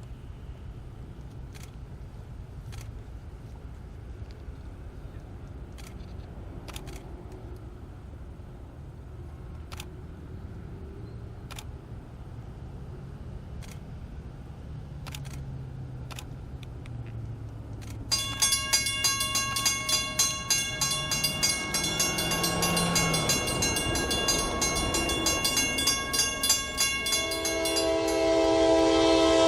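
A diesel locomotive approaching: a low engine rumble builds slowly, then about 18 seconds in the engine and train noise turn suddenly loud and rattling as it draws close. Near the end the locomotive's horn sounds a steady chord.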